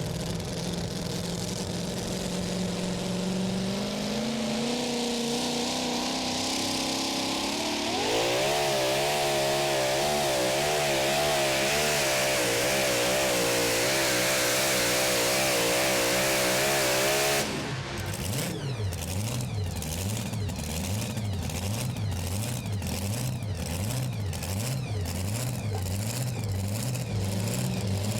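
Super modified two-wheel-drive pulling truck's engine: it rises slowly in revs as the chain is taken up, then about 8 seconds in goes to full throttle with the revs wavering up and down, and cuts off sharply about 17 seconds in. After that it runs at a low, lumpy idle with a steady rhythmic lope.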